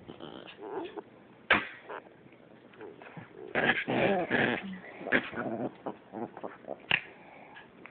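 Dogs fighting, their noises coming in irregular bursts, densest about halfway through, with two sharp short sounds, one early and one near the end.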